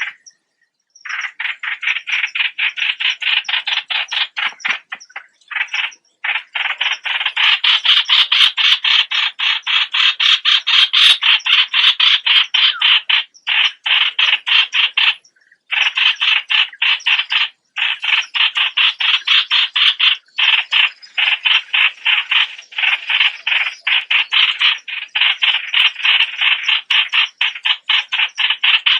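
A bird known in Thai as nok plot suan singing a long, fast rattle of evenly repeated short notes. The runs go on for several seconds at a time, broken by brief pauses.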